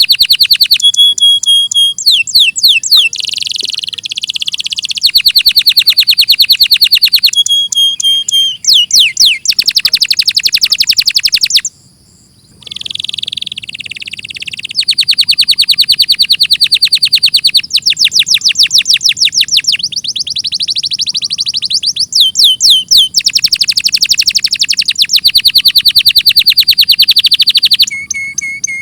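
Domestic canary singing a long song made of fast rolling trills and rapidly repeated high notes, with a brief break about twelve seconds in.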